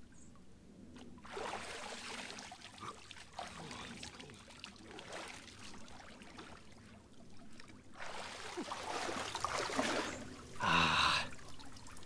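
Sea water splashing and trickling as a person moves through it, in two spells, with a short pitched sound near the end.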